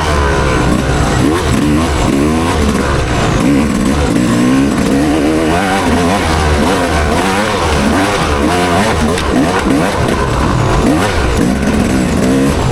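Motocross bike engine revving hard, its pitch rising and falling again and again as the rider accelerates, shifts and backs off around the track.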